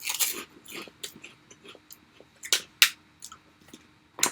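Close-up chewing of a crunchy snack: irregular crackling crunches, with three sharper, louder crunches in the second half.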